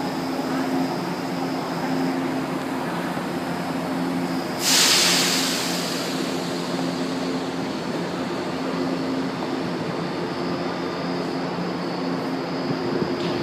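São Paulo Metro Line 2 train in the station, a steady mechanical hum with a few low tones, broken about four and a half seconds in by a sudden loud hiss that fades over a second or so.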